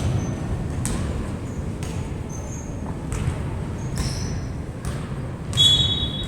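Basketball bouncing on a court in a hall: separate thuds a second or so apart over a steady rumble of background noise, with short high shoe squeaks and one brief high squeak near the end.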